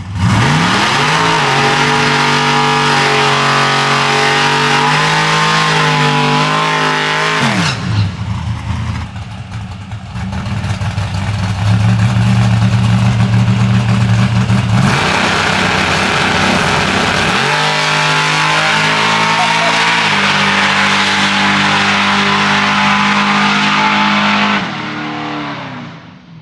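Cars at full throttle on a drag-strip run, engines revving hard. The pitch climbs, holds and drops at the gear changes several times, then the sound fades away near the end.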